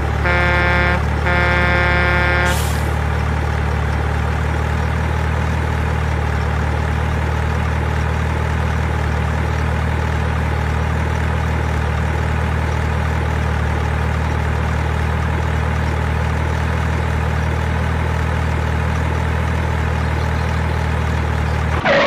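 A truck horn sounds twice in the first couple of seconds, a short blast then a longer one, followed by a truck engine running steadily with a low hum.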